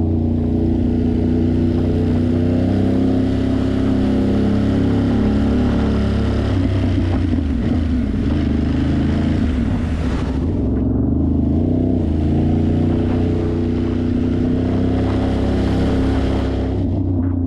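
Ducati Monster's 90-degree V-twin engine running under way, its pitch dipping and rising again about halfway through. Over it is a steady hiss of wind and road noise, which cuts out briefly about ten seconds in and again near the end.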